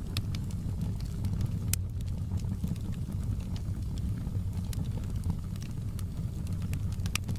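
Wood fire burning in a fireplace, the logs crackling with irregular sharp pops over a steady low rumble of the flames.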